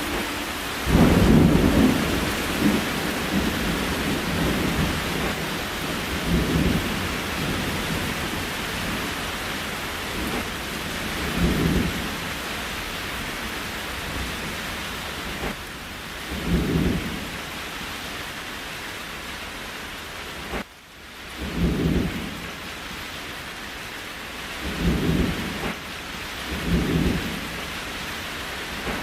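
Steady rain falling, with short, low rumbling thuds every few seconds, the loudest about a second in. The sound briefly drops out about two-thirds of the way through.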